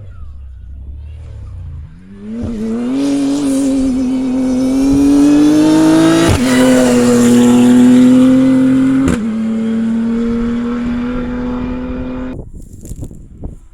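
Rally raid car's engine accelerating hard, its pitch climbing and then dropping at two upshifts, one about four seconds in and one about seven seconds in. The sound stops abruptly near the end, after a low rumble at the start.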